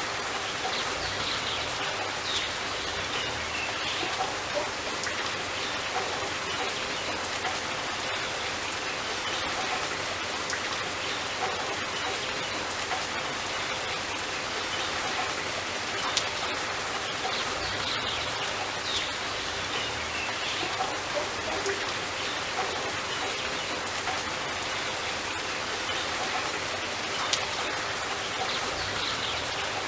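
Steady rain falling, with a few sharper drip hits standing out, one about halfway through and one near the end.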